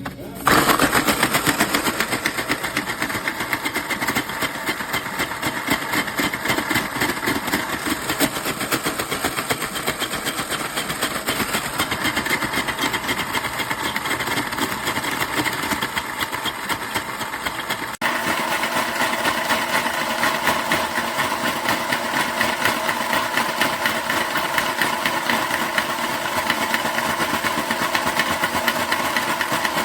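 Reemix electric ice shaver running, its motor-driven stainless steel blades shaving ice cubes with a steady, fast rattling grind. It starts suddenly about half a second in and changes tone abruptly about two-thirds of the way through.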